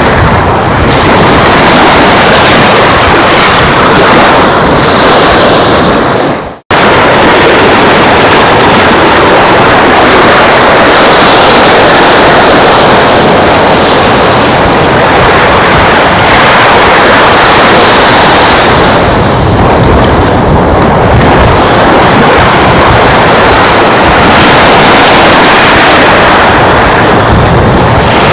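Loud, steady rush of surf mixed with wind buffeting the microphone. It cuts out suddenly for a split second about six and a half seconds in.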